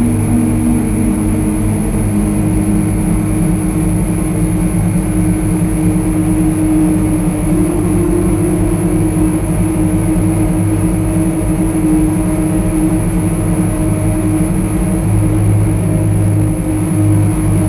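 Lyra-8 synthesizer drone: dense, sustained low tones layered over gritty noise, holding steady with only slow small shifts in pitch.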